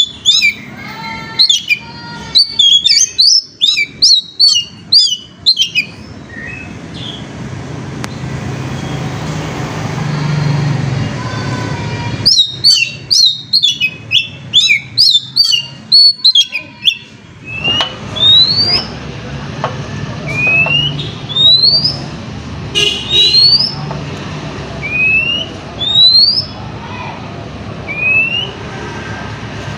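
Oriental magpie-robin (kacer) singing loud, rapid chirping phrases, then a series of single upward-sliding whistles about every two seconds. A low rumble runs underneath.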